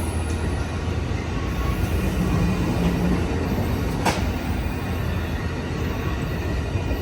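Amtrak Coast Starlight passenger train rolling past, a steady rumble of wheels on rails, with a single sharp click about four seconds in.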